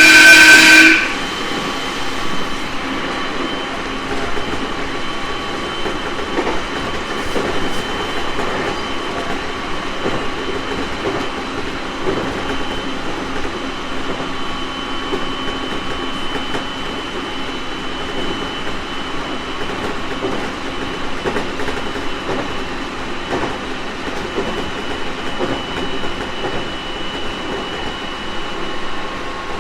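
JR East 701 series 1000-subseries electric train running along the line: steady wheel-and-rail and motor noise with a faint constant high whine. At the very start a loud pitched blast of about a second sounds over it.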